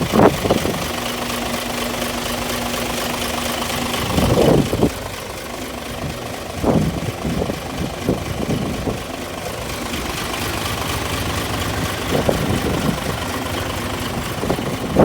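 Isuzu Giga heavy truck's diesel engine idling steadily, with a few short, louder knocks along the way.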